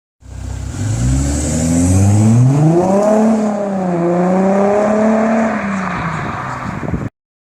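Audi A5 3.0 TDI V6 turbodiesel engine accelerating: its pitch climbs steadily for about three seconds, dips briefly, then holds high before the sound cuts off suddenly near the end.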